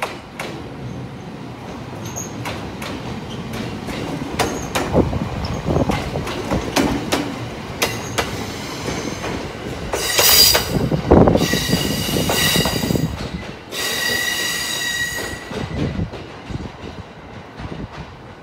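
JR East 701 series electric train rolling past on a shunting move, its wheels clacking over rail joints. Midway through, the wheels squeal with a high ringing tone in three spells of a second or two each, the loudest part of the pass.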